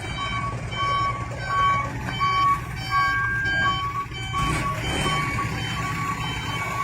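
Truck reversing alarm beeping steadily, about three beeps every two seconds, over the low running of the truck's engine.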